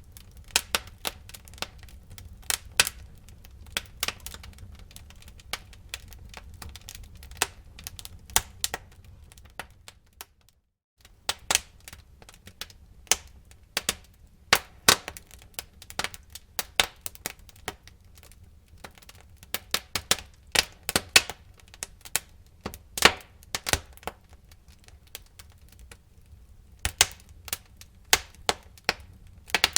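Wood fire in a fireplace crackling, with many irregular sharp pops and snaps over a low steady rumble. The sound cuts out completely for about half a second around ten seconds in.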